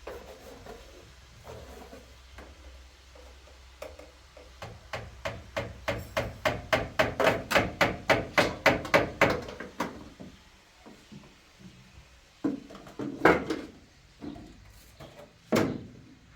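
A fast, regular run of about twenty sharp knocks, four or five a second, lasting some five seconds, then a few single knocks.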